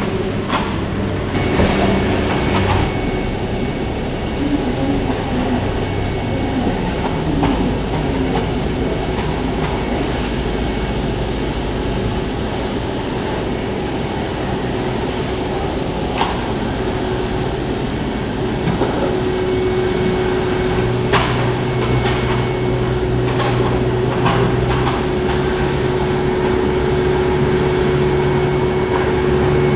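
Aircraft engines running, heard muffled through a cafe window as a steady rumble with a droning hum whose pitch steps up near the end, mixed with occasional sharp clicks and clatter.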